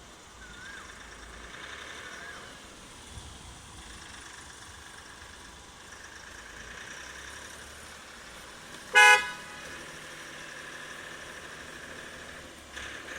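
Mahindra TUV300's diesel engine running with a steady drone and a faint high whine, the truck-like noise the owner complains of. About nine seconds in, a car horn sounds once, briefly and loudly.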